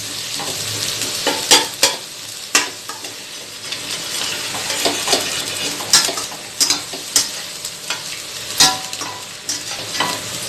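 Egg, onion and cabbage sizzling in hot oil in a wide kadai, stirred with a ladle that scrapes the pan at irregular intervals, about every second or two. The cabbage is being sautéed only briefly so it stays crunchy.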